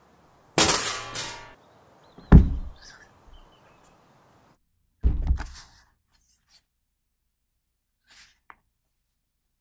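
Sound-effect axe chops and impacts. A loud, noisy hit comes just after half a second in, a sharp heavy chop about two seconds in, and a duller thud about five seconds in, followed by a few faint small clicks.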